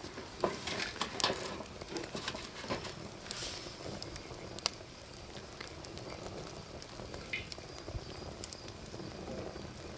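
Wood fire burning in a fire pit, crackling with irregular sharp pops and cracks over a soft steady hiss.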